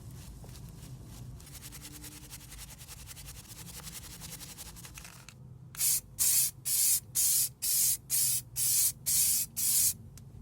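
Sanding with a scratchy rubbing for the first half, then an aerosol spray can giving about nine short hissing bursts, roughly two a second, as paint is sprayed on in quick passes.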